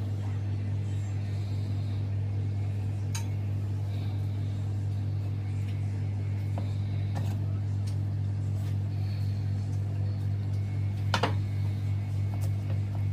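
A steady low electric machine hum, unchanging, with a few light clicks and clinks scattered through and a sharper clink about eleven seconds in.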